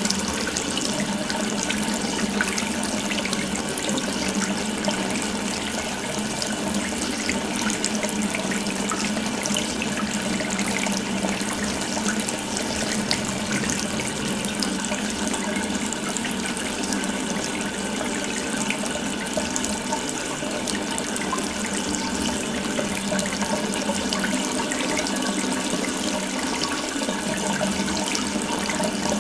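Water running steadily from an open tap, an even splashing rush.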